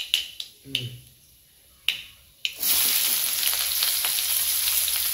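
A few sharp clicks, then about two and a half seconds in a loud sizzle starts suddenly and holds steady as chopped onions, dried red chillies and garlic hit the hot oil in a kadai.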